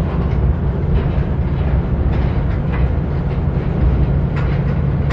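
Rail cars of a work train loaded with racks of stacked rail rolling past close by: a steady low rumble of wheels on track, with short squeaks and clicks scattered through it.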